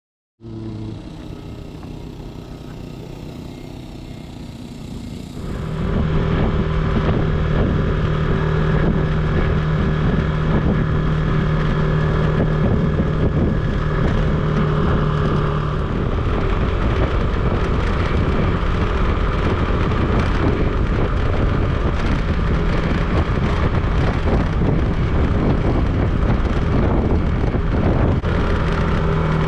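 Motorcycle engine running steadily while riding, with wind noise, after a quieter start that becomes much louder about six seconds in.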